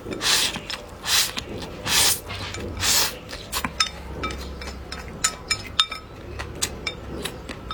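Close-up eating noises: four loud mouth sounds of chewing or slurping, about a second apart, then a run of light clicks and clinks of utensils against dishes.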